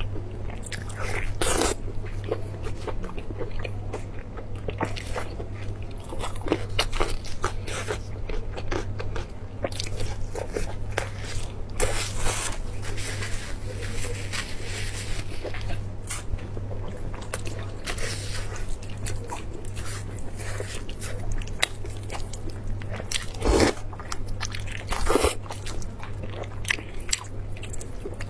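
Close-miked eating: a woman biting into and chewing chunks of a large roasted meat joint, many short wet clicks and crackles of chewing and tearing, over a steady low hum.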